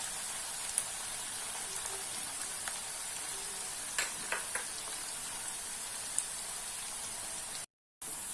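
Sliced onions deep-frying in hot ghee and oil: a steady sizzling hiss with a few sharp pops and crackles, and a brief break in the sound near the end.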